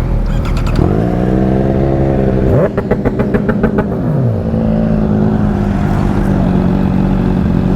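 Motorcycle engine pulling away and accelerating: the pitch rises, drops at an upshift about two and a half seconds in, rises again, drops at a second shift about four seconds in, then holds a steady note.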